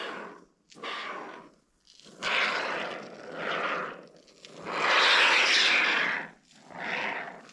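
Can of Great Stuff Gaps & Cracks expanding foam being sprayed in about six short hissing spurts, the longest, near the middle, lasting about a second and a half.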